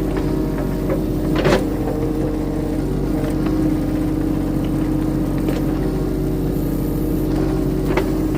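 Diesel engine of a compact earthmoving machine running steadily while it works to pull out a heavy tree root ball, with a short knock about a second and a half in and another near the end.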